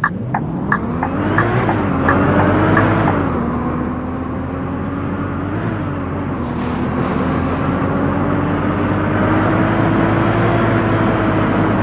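Scania K230UB bus's engine and automatic gearbox pulling away: the engine note climbs, drops with gear changes about two and three seconds in, then runs on at a steadier, slowly rising pitch under road noise. A regular clicking about three times a second fades out over the first few seconds.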